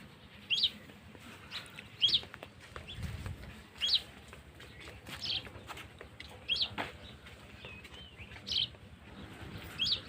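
A bird calling: short, sharp, high chirps repeated about every second and a half, with fainter chirps in between.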